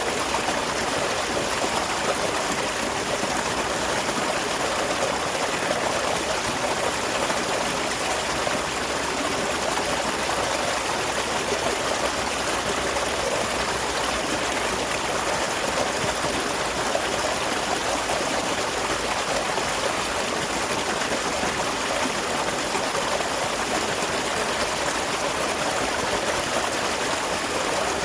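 Small waterfall splashing and flowing in a steady, unbroken rush of water.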